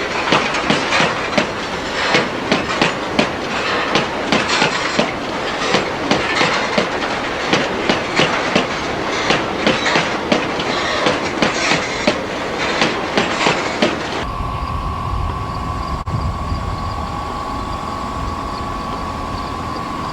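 Freight train cars rolling past, their wheels clattering over rail joints in a quick, steady rhythm. About two-thirds of the way in the sound cuts abruptly to a steady low rumble with a single high, steady hum.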